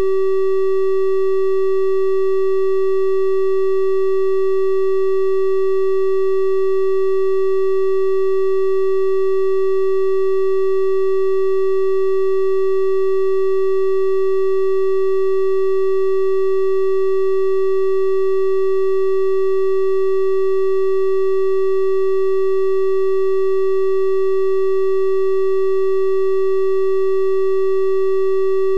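Synthesized 384 Hz triangle-wave tone, held steady and unchanging, with faint overtones above the main pitch.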